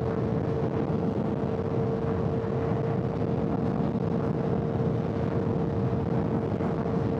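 Honda CBR600's inline-four engine running at a steady cruising speed on the highway, holding one constant pitch with no revving or gear changes.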